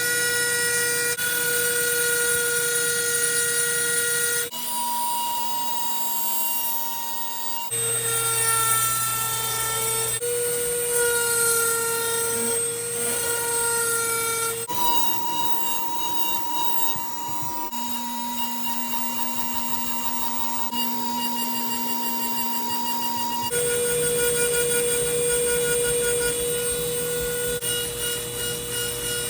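A shop power tool's motor whining steadily, heard in a string of short clips that switch abruptly every few seconds, the pitch shifting from clip to clip.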